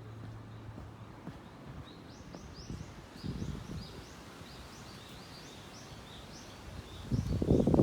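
A small bird singing a quick run of high chirps, about three a second, over faint outdoor ambience. Near the end, wind buffets the microphone with a loud low rumble.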